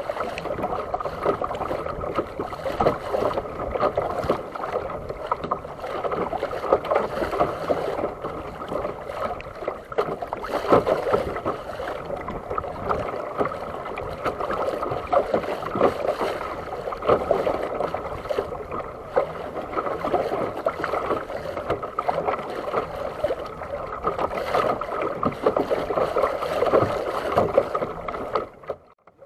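Water splashing and lapping against a fishing kayak as it moves out on the sea: a steady, crackly wash of small irregular splashes that drops out abruptly about a second before the end.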